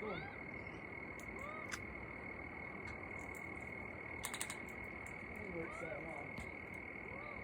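Faint outdoor background: a steady high-pitched drone under scattered soft chirping calls that rise and fall in pitch, with a few quick clicks about four seconds in.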